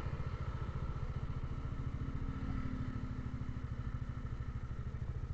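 Motorcycle engine running steadily while riding, a fast even low pulsing from the engine.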